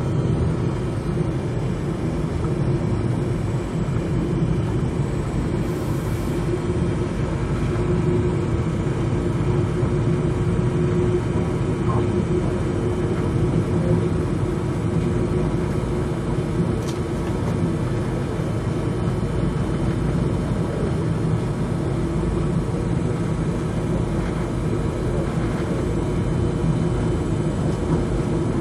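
A passenger train running steadily, heard from inside the car: an even low rumble with a faint steady hum.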